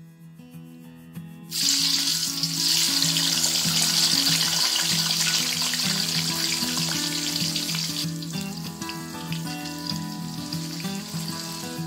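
Hot oil in a wok breaks into loud sizzling about a second and a half in as raw tofu cubes go in, then keeps frying steadily, easing a little after about eight seconds. Soft background music plays underneath.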